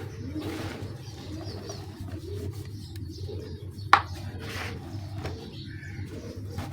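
Dry cement being crumbled, with crackling handfuls and one sharp snap about four seconds in. Low wavering calls sound in the background, over a steady low hum.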